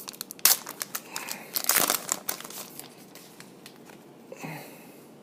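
Trading card pack wrapper being torn open and crinkled, a dense run of sharp crackles that thins out after about three seconds.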